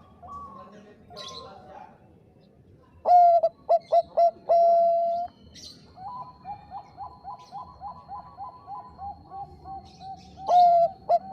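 Zebra dove (Bangkok-type perkutut) cooing. About three seconds in comes a loud phrase of a few short notes ending in a long held note. Then a run of quicker, softer repeated coos follows, and another loud phrase begins near the end.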